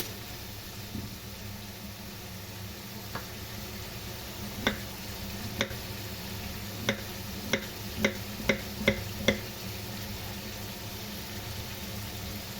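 Food sizzling in a frying pan, with a run of about eight sharp knocks of a utensil against the pan, roughly two a second, partway through.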